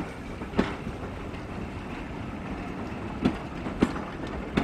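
Railway train wheels rolling over rail joints: a steady rumble with a handful of sharp, irregularly spaced clicks.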